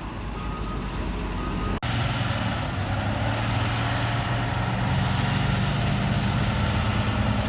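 Diesel engine of heavy road-building machinery running steadily under load, louder after a sudden cut about two seconds in. A faint high beeping comes and goes before the cut.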